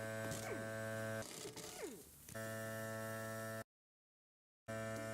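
Steady electrical hum with a buzzy edge, broken by abrupt cuts: it stops about a second in, comes back, goes dead silent for about a second, then resumes.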